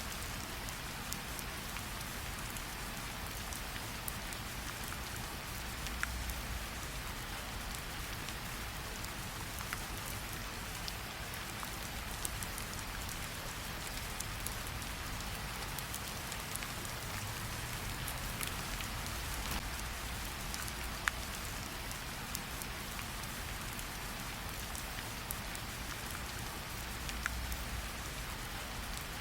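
Steady rain falling, with a few sharp crackles from a campfire now and then.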